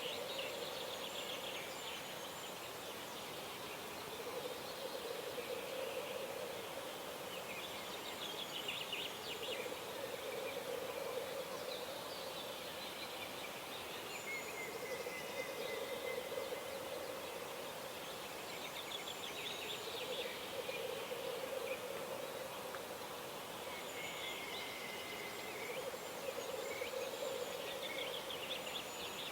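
Birds singing at dawn: several trilled song phrases and a couple of drawn-out whistled notes, over a low pulsing hum that comes back for about two seconds every three to four seconds.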